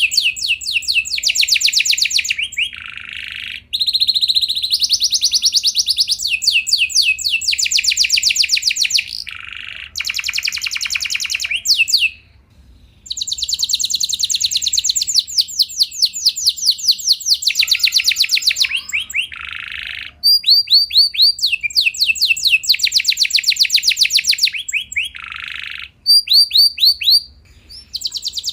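Domestic canary singing a long song of fast high trills and rolling runs of repeated notes, with a brief pause about twelve seconds in.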